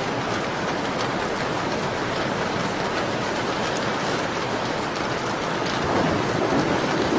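Steady rain on a window pane, an even hiss with faint scattered ticks of drops. It swells slightly about six seconds in.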